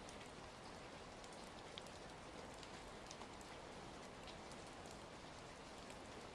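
Steady rain ambience, a faint even hiss with scattered small ticks of drops.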